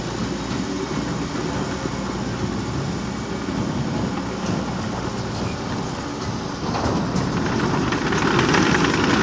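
Liebherr PR 726 crawler dozer working, its diesel engine running steadily under a rattling clatter from the tracks, growing louder about seven seconds in.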